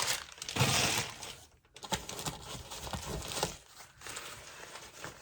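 Packaging being crinkled and rustled while stock is unpacked from a box, loudest in a burst about a second in, then softer rustling with a few small clicks.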